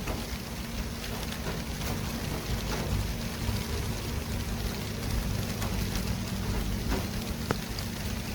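City traffic ambience: a steady wash of noise with a low rumble from passing vehicles and a faint steady hum.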